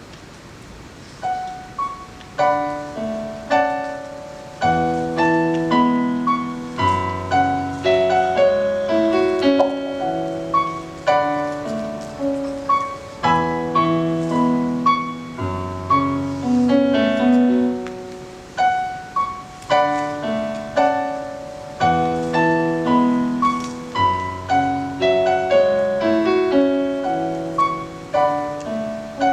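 Solo piano playing a slow, lyrical introduction, a melody over broken chords, each note struck and fading; it begins about a second in.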